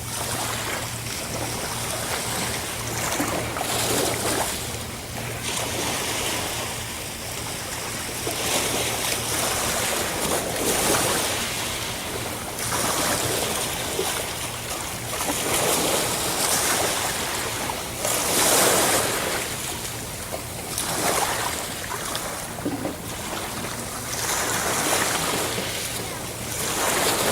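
Sea surf: waves breaking and washing in, swelling and fading every few seconds, over a steady low hum.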